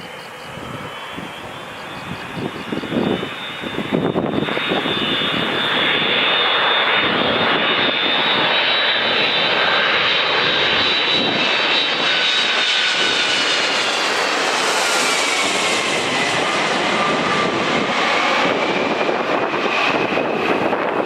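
Boeing 767-300ER jet airliner on landing approach passing close by. A steady engine roar with a high whine grows louder about four seconds in, and the whine drops in pitch around fifteen seconds in as the aircraft passes.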